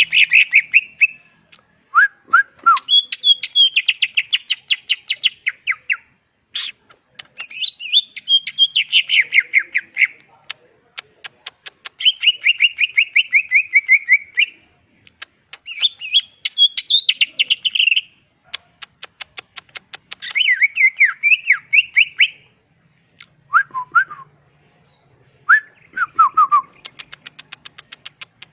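Green leafbird (cucak ijo) singing: loud phrases of fast, rapidly repeated chattering notes, each a couple of seconds long, with short pauses between them and a few lower, slurred whistles in the gaps.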